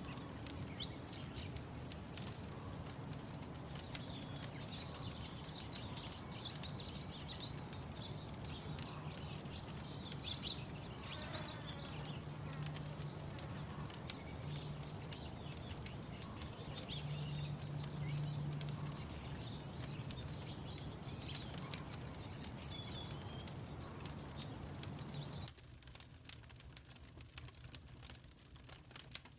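Wood fire crackling with many small scattered pops, over small birds chirping and a low steady hum. About 25 seconds in, the background hiss and birdsong cut away abruptly, leaving the crackling alone.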